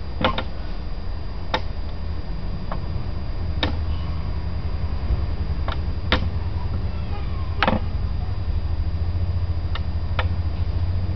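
Sound module of a 1/14 Scania model truck playing a diesel engine at idle: a steady low rumble, with sharp clicks at irregular intervals.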